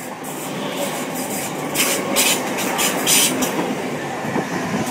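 A Class 377 Electrostar electric multiple unit moving along the platform with a steady rail rumble. Several short bursts of hiss come about two and three seconds in.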